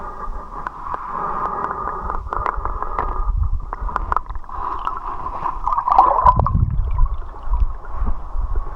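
River water splashing and gurgling as a swimmer moves through it, dull and muffled, with scattered short knocks and a deeper swell of water about six seconds in.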